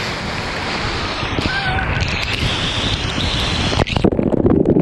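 Waterfall rushing steadily. About four seconds in it gives way suddenly to a loud, muffled low rumble with knocks.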